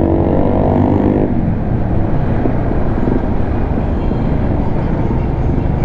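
Motorcycle on the move: a steady engine tone for about the first second, then mostly rushing wind and road rumble on the microphone.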